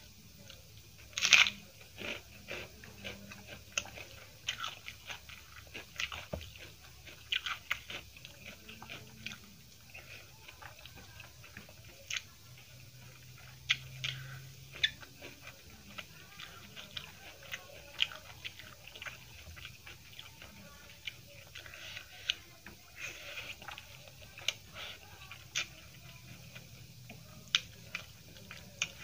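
Close-miked eating sounds: a person chewing and biting mouthfuls of egg curry, rice and raw vegetables eaten by hand, with scattered sharp crunches, the loudest about a second in.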